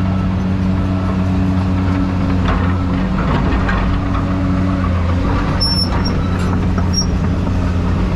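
Excavator diesel engine running steadily with a low, even hum, with a few brief high squeaks and clicks about six to seven seconds in.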